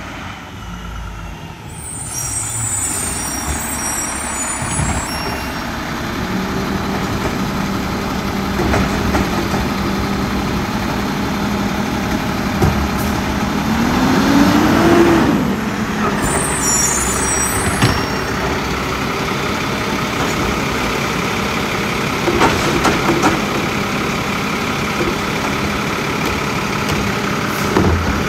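Mack LR garbage truck with a Labrie Automizer automated side loader working a collection stop: the engine runs steadily under a steady whine, revs up and back down about halfway through, and there are a few knocks and two brief high squeals or hisses from the air brakes.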